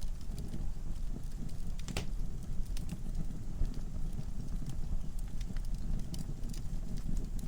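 Wood fire in a fireplace burning with a low steady rumble and frequent sharp crackles and pops, one louder crack about two seconds in.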